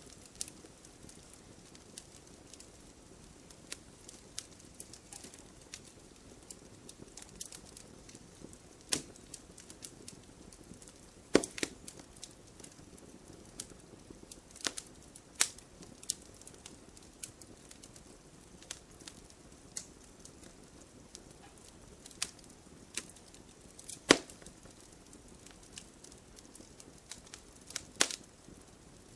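Wood fire burning: a soft steady hiss with irregular crackles and pops, and a handful of much louder sharp snaps.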